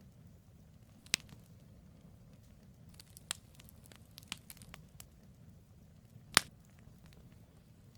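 Firewood burning in a campfire, crackling with scattered sharp pops over a faint low rumble. A cluster of small snaps comes about three to five seconds in, and the loudest pop about six seconds in.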